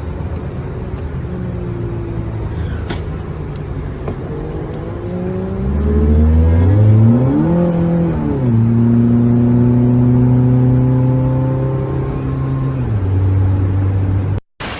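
A motor vehicle's engine accelerating. Its pitch climbs about five to seven seconds in, drops suddenly as if through a gear change, then holds steady at a higher level before easing off near the end.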